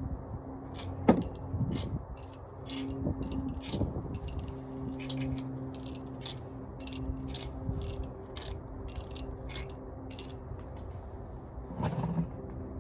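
Hand tools working on a Honda F22C engine during teardown: irregular ratchet clicks and metal clinks, with one sharp clank about a second in, over a low steady hum.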